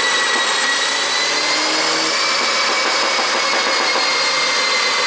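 BMW G30 530i's turbocharged four-cylinder engine running steadily, heard as a loud hissing whine with a few high tones that drift slightly in pitch.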